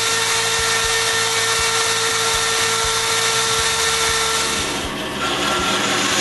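An electric power tool running steadily and cutting wood, with a steady whine over the cutting noise. The tone shifts and the level dips briefly about five seconds in.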